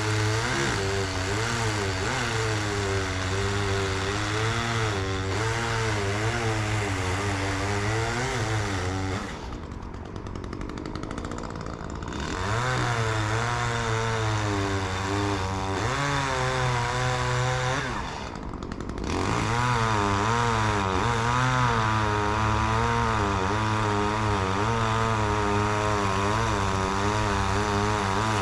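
Two-stroke chainsaw running hard, its pitch wavering as it cuts. The engine drops back for about three seconds around nine seconds in, and again briefly around eighteen seconds in, then goes back to full throttle.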